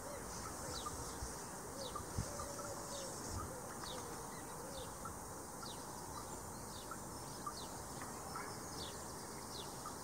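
Birds calling outdoors over a steady background hiss: a string of short, high, falling notes repeats about once or twice a second, and a lower wavering call comes in during the first half.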